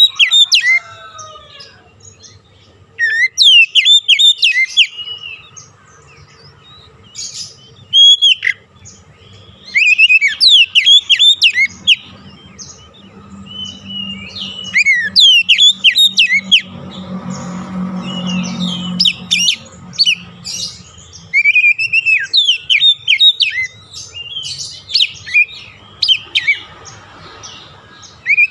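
Oriental magpie-robin singing in bursts of rapid, varied whistles and chirps, phrase after phrase with short pauses between. It is the loud, lively song used to stir a caged bird into singing.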